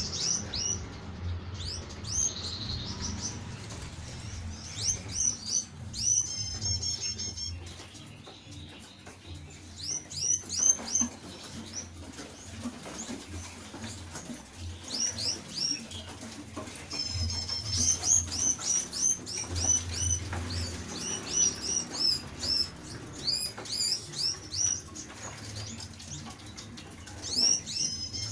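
Many small caged songbirds in a crowded shared cage chirping over one another: short high chirps repeating throughout, with a few quick trills.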